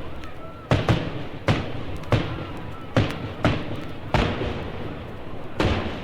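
A series of sharp bangs from a sound-effects record, about eight in six seconds at uneven intervals, each with a short echoing tail, over a steady noisy background.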